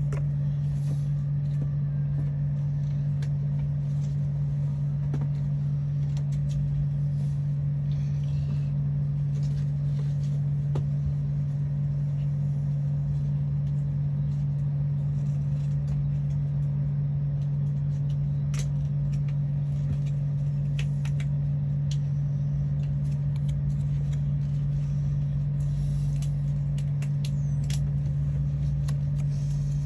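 A steady low hum runs unchanged underneath, with a few faint scattered clicks and taps on top.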